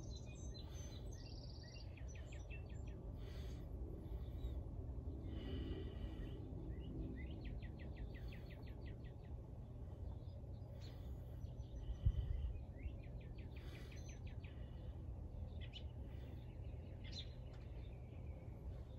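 Small birds chirping and trilling, with several rapid runs of short chirps, over a steady low background rumble. A brief low thump about twelve seconds in.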